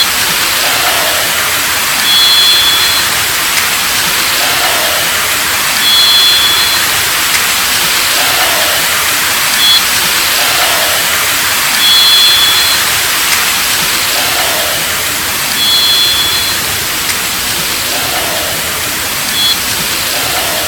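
Steady loud hiss with a short high whistle of two steady notes sounded together, repeating every four to six seconds, and a fainter short falling note lower down about every three seconds. The repeating whistle is an unidentified sound that may be a bird call but sounds electronic.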